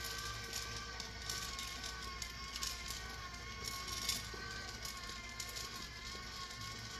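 Drum coffee roaster running with a steady hum, and scattered crackles from the roasting beans.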